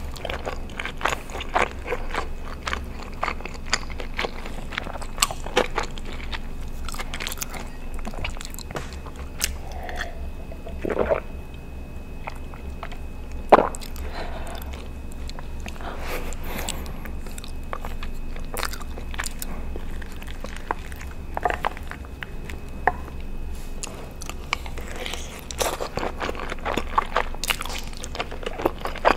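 Close-miked eating sounds: wet chewing and lip smacks on mouthfuls of cheesy Alfredo pasta, many quick clicks of the mouth throughout, with one sharper click about halfway through.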